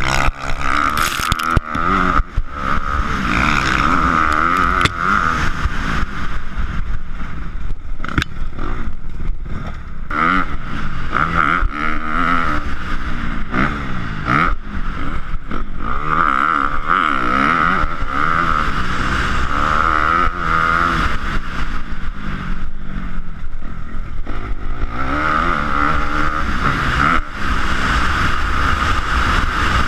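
Motocross dirt bike engines revving up and down as they ride the track, their pitch rising and falling over and over, with frequent knocks and rattles.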